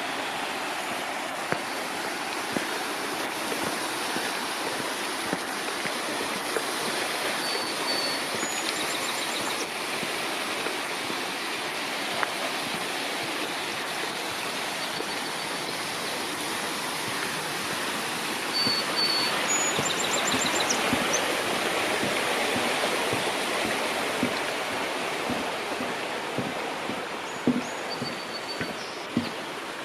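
Steady rushing of a mountain stream, swelling a little past the middle, with birds chirping briefly a few times over it.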